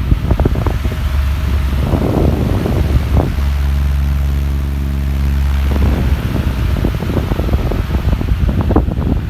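Venti Delta Ventura 60 cm three-blade pedestal fan running. Its airflow gusts irregularly against the microphone, and the gusting drops away for a couple of seconds in the middle, leaving a steady motor hum.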